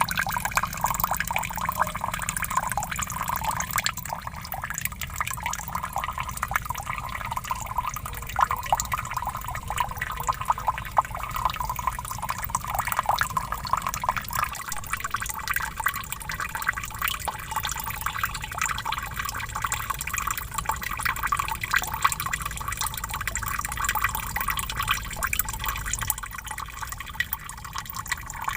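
Small waterfall: falling water splashing and trickling continuously, a steady stream of small drips and splashes.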